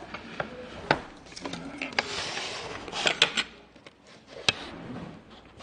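Tableware being handled on a restaurant table: several sharp knocks and clinks of dishes and chopsticks, with a short scraping sound about two seconds in.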